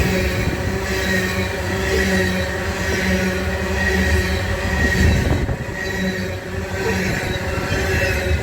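Loaded coal train's hopper cars rolling past at track side: a steady rumble of steel wheels on rail, with high steady ringing tones that swell and fade.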